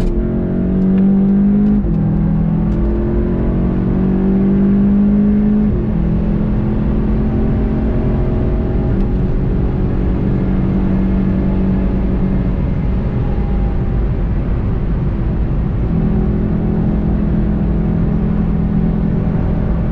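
VW Golf 7 GTI TCR's turbocharged 2.0-litre four-cylinder heard from inside the cabin under hard acceleration, rising in pitch with upshifts about two and six seconds in. It then runs on at high speed, easing off in the middle before pulling strongly again near the end.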